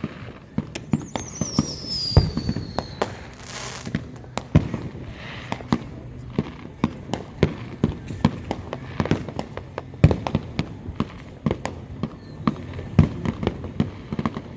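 Fireworks show: a steady run of bangs and crackling pops, with a falling whistle about a second in.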